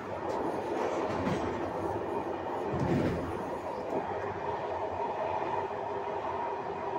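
Passenger train running along the line, heard from its rear end: a steady rumble of wheels on the rails, with a few knocks in the first second or so and a heavier thump about three seconds in.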